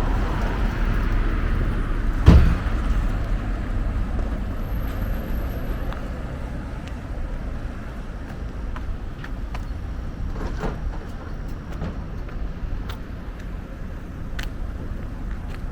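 Street traffic: a road vehicle's low rumble, loudest at first and fading as it moves away, with one sharp knock about two seconds in.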